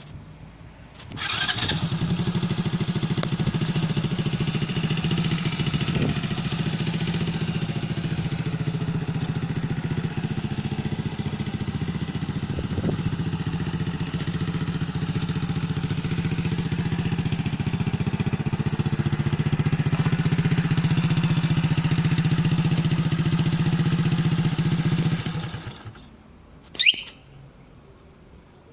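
Mini chopper motorcycle engine started by the alarm system's remote autostart, catching about a second in and idling steadily. It shuts off near the end, followed by a short high chirp from the alarm.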